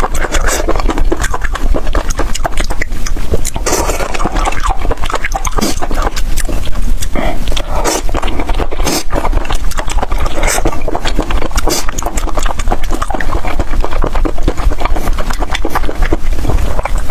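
Close-miked wet eating sounds of a person chewing and slurping raw octopus: dense, rapid smacking and sucking clicks with no pause.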